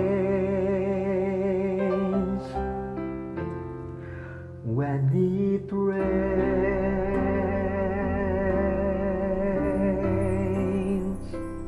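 The closing bars of a slow inspirational song. A singer holds long notes with vibrato over instrumental accompaniment, then the music fades near the end.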